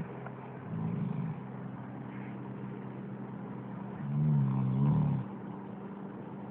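Dog snoring: a short, softer snore about a second in, then a longer, louder snore from about four seconds in.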